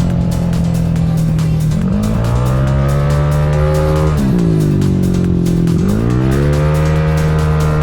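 Single-cylinder engine of a 237cc race-tuned Yamaha Cygnus scooter with a Gryphus engine swap, revving hard: its pitch climbs, drops suddenly about four seconds in, and climbs again, with music underneath.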